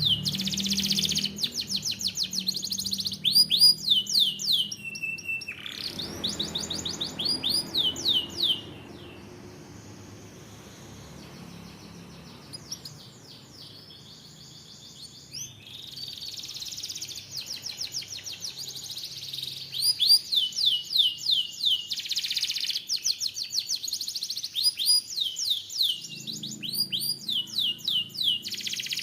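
Domestic canary singing long rolling trills of rapidly repeated sweeping notes, with a quieter pause partway through before the trills resume.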